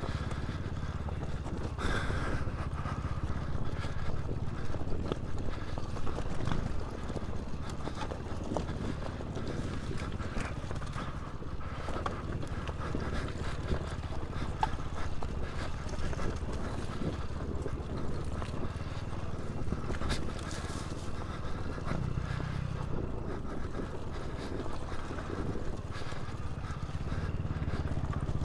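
Dirt bike engine running at steady, low revs, with frequent knocks and clatter from the bike jolting over rough trail.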